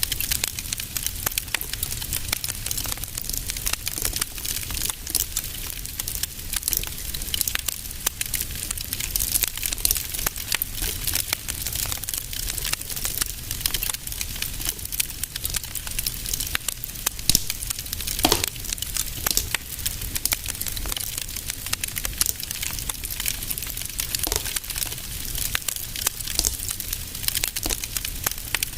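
Fire burning in a fireplace: a dense, steady crackle of small pops over a low rumble, with one louder pop about eighteen seconds in.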